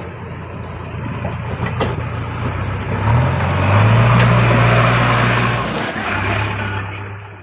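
JCB backhoe loader's diesel engine working under load. Its note rises and gets louder about three seconds in as it revs, dips briefly near six seconds, then fades out. A sharp knock comes just before two seconds.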